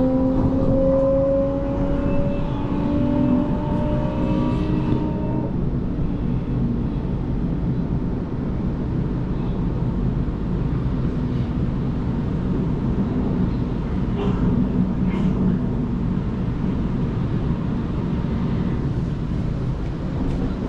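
Electric passenger train heard from inside the carriage: a whine from the traction motors, slowly rising in pitch, for the first few seconds, then fading into a steady rumble of the wheels running on the track, with a few faint clicks in the second half.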